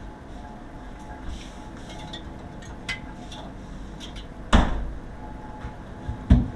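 A few light clicks and then two loud knocks about two seconds apart, over a steady low hum.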